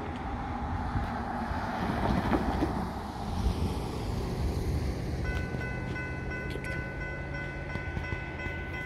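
Amtrak train approaching, the last of a horn blast fading in the first second as the rushing rumble of the train swells, loudest about two seconds in. About five seconds in a steady high two-note ringing from the grade-crossing warning bell starts over the low rumble.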